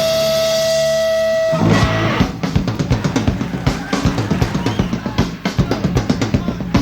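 Live rock band with electric guitars and drum kit playing: a sustained guitar chord rings for the first second and a half, then the drums come in with a rapid run of hits under the guitars.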